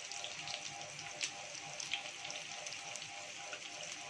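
Stuffed bitter gourds frying in hot oil in a shallow pan: a steady sizzling hiss with scattered sharp crackling pops as more pieces are laid into the oil.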